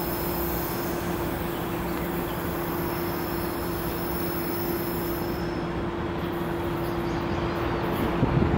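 A Taiwan Railways EMU500-series electric train approaching slowly from a distance around a curve: a steady rumble with a constant low hum under it, growing slightly louder near the end.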